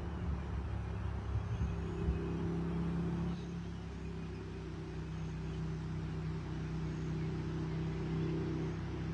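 An engine running at a steady speed: a constant low hum with a noisy rumble under it.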